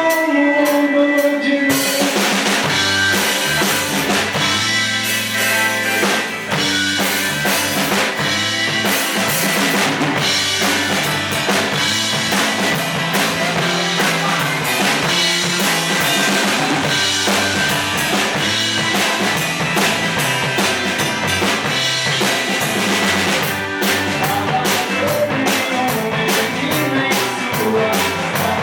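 A band playing live: drum kit with bass drum, snare and rimshots over a bass line and other instruments. About two seconds in the drums and bass come in with the full band, after a few held tones.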